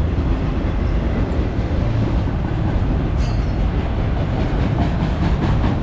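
Freight train of auto rack cars rolling past as it slows, a steady heavy rumble of steel wheels on rail. A brief high squeal comes about three seconds in, and near the end the wheels click rapidly over the rail joints, about five a second.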